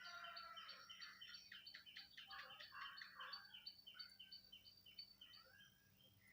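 Faint bird chirping: a run of short, high chirps repeated about three times a second, fading out about five and a half seconds in.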